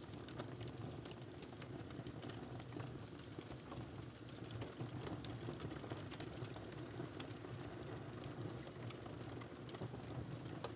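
Wood fire crackling in a fireplace: scattered, irregular pops and snaps over a steady low rumble.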